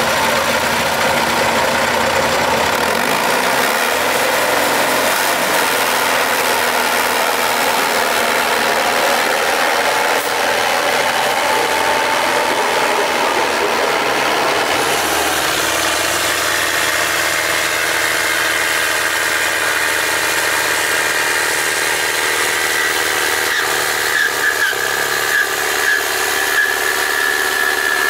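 Tractor engine running loud and hard, as in a tractor pull, its pitch climbing slowly for a few seconds. About halfway the sound changes and a high steady whine carries on to the end.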